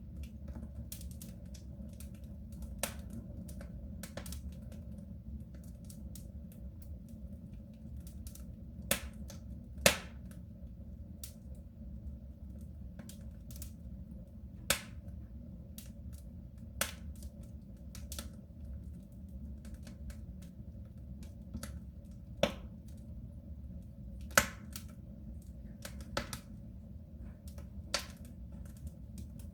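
Wood fire crackling in a soapstone stove: irregular sharp pops and snaps, the loudest about ten seconds in and again near twenty-five seconds, over a steady low rumble.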